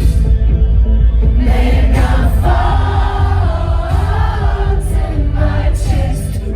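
Live concert music through a PA with heavy bass, and a large audience singing along in unison like a choir.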